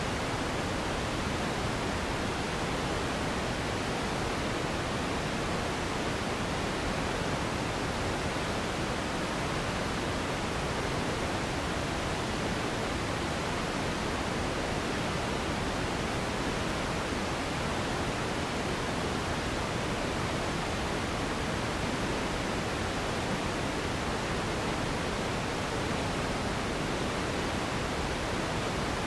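Steady synthetic pink noise, an even hiss spread across all pitches and weighted toward the low end, unchanging throughout.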